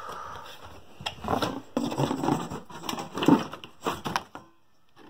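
A cardboard box being opened by hand, with packaging rustling and scraping and a few clicks and knocks as the kettle is pulled out. It goes quiet a little after four seconds in.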